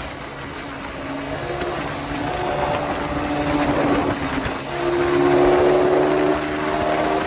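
Suzuki Satria F150 (Raider 150) motorcycle engine running through its Thai CBU exhaust while under way, against a haze of wind and road noise. The engine note holds steady tones that shift in pitch a few times, dips briefly about four and a half seconds in, then comes back louder.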